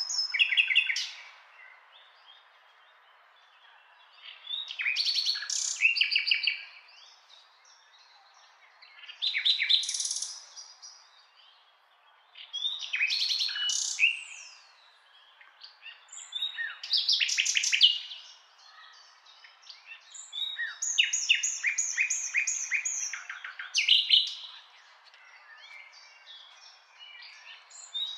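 Birds singing: short phrases of quick high notes and trills, one every three to four seconds, over a faint steady background hiss.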